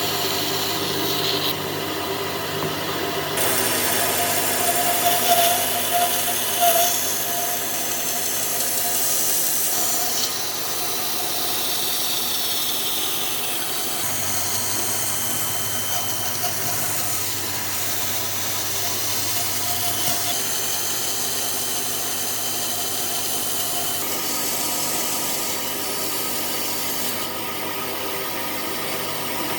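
A power tool running steadily on wood, its sound changing abruptly several times.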